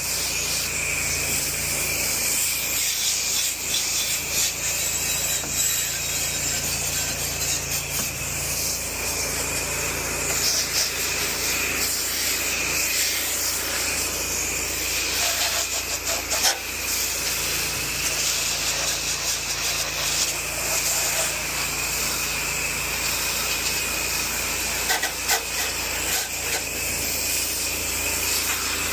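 Pressure washer blasting a high-pressure water jet across wooden deck boards and furniture: a steady hiss of spray with a constant high whine, over the washer's steady low engine hum.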